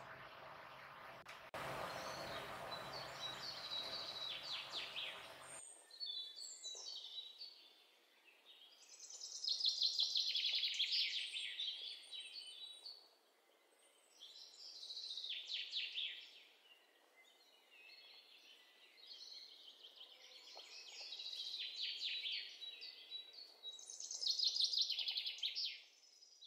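Bird song in repeated bursts of quick, rapidly gliding chirps, separated by short pauses. It starts after a few seconds of steady hiss-like noise that cuts off suddenly about five seconds in.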